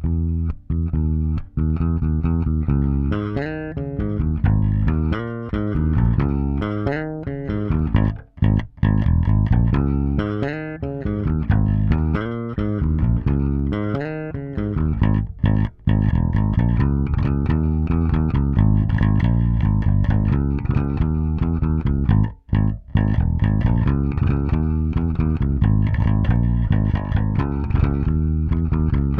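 Solo electric bass guitar line played through an LA-2A-style tube opto compressor, with a few short breaks between phrases.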